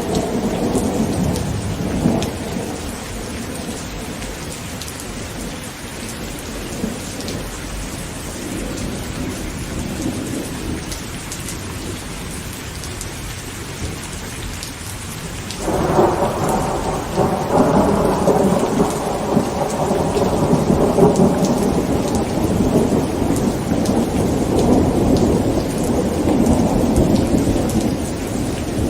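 Heavy rain pattering on a tent with thunder: a rumble dies away in the first few seconds, then a sudden loud thunderclap about halfway through rolls on in a long rumble.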